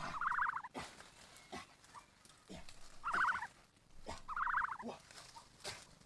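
Three short, rapidly pulsed bird calls, each about half a second long, with a few sharp clicks between them.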